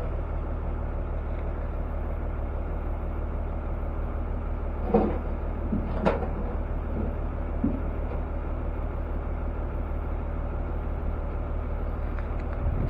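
Steady low drone of an idling truck engine, with a few short knocks about five and six seconds in.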